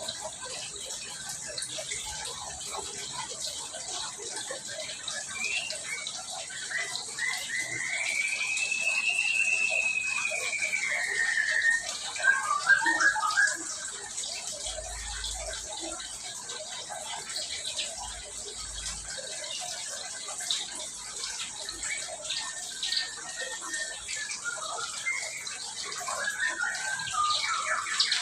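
Small songbirds in an aviary calling over a steady hiss: one long whistle that rises and falls from about seven seconds in, a cluster of short chirps right after it, and more chirping near the end.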